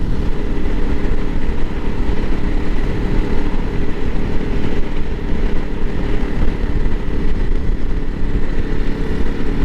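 Honda CRF300L Rally's single-cylinder engine running at a steady pitch while the motorcycle cruises at constant speed, with a noisy rush of air over it.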